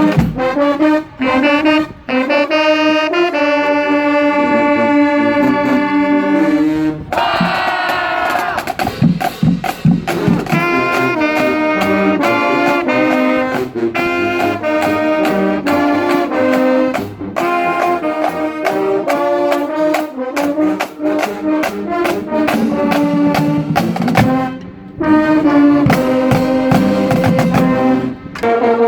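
Marching band playing, with brass in front. A long held chord sounds about three to seven seconds in, then quicker rhythmic passages follow, with a short break a few seconds before the end.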